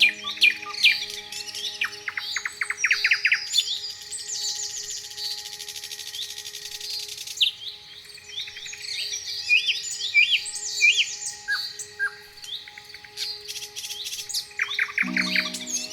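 Small songbirds chirping and singing in a busy chorus of quick rising and falling notes, with a fast high trill in the middle. Soft sustained music chords run underneath and change near the end.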